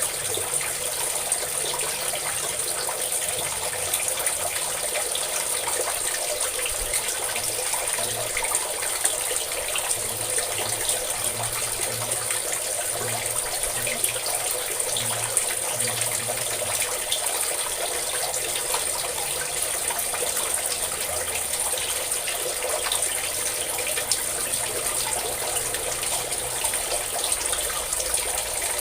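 A stream of water pouring and splashing steadily, without a break.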